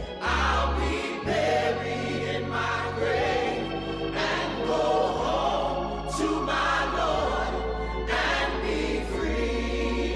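Background music: a choir singing slow, sustained phrases in a gospel style over steady low notes.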